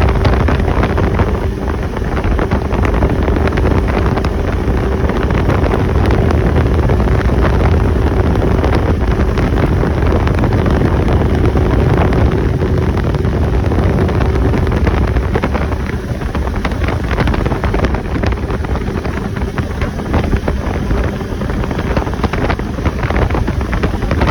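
Four-wheeler (ATV) engine running while riding along, with wind rushing over the microphone; the engine hum eases off slightly about two-thirds of the way through.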